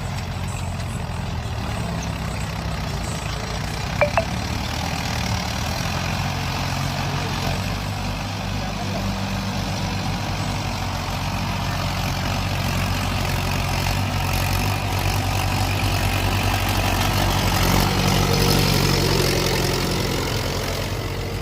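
Mahindra 575 tractor's diesel engine running steadily, with a single sharp click about four seconds in; the engine grows louder toward the end, then eases off.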